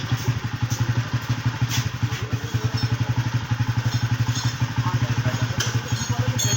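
Motorcycle engine idling steadily with a fast, even pulse, with a few faint light clinks over it.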